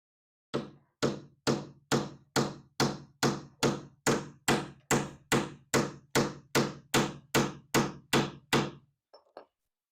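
Hammer blows in a steady rhythm, about twenty sharp knocks at a little over two a second, fixing a piece of wooden trim to a cabinet side. Two faint taps follow near the end.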